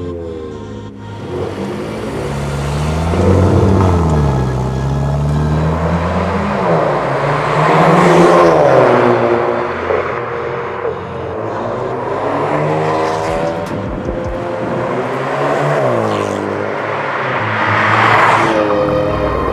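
Hyundai Kona N-Line's XForce VAREX valved cat-back exhaust under acceleration, the revs rising and falling several times as the car pulls through the gears.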